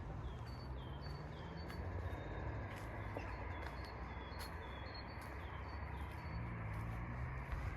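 A small songbird repeating short chirps, over the low rumble of a distant engine whose pitch shifts near the end.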